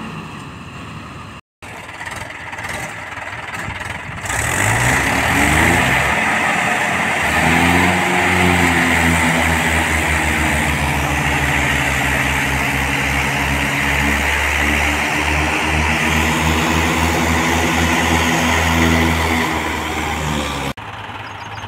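Tractor diesel engine revved up about four seconds in, then held at high revs, labouring with a throbbing low beat while pulling under heavy load. It cuts off abruptly near the end.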